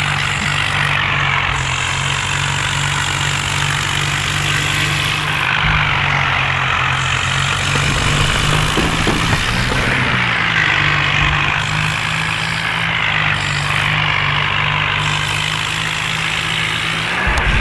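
John Deere tractor's diesel engine running steadily, with a constant rushing noise over it.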